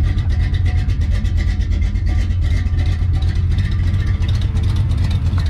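1972 Chevrolet C10 pickup's engine idling steadily, a deep, even throb with fast regular firing pulses.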